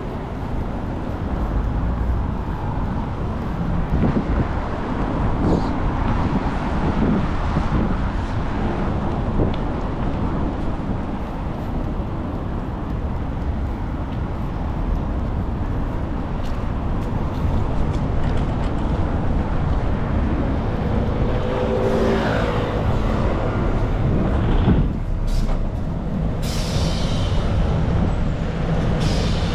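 City road traffic: cars and buses passing in a steady rumble, with an engine note rising briefly and short air-brake-like hisses near the end.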